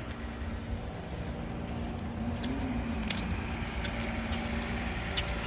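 Car engine idling steadily, a low even hum with a faint click or two.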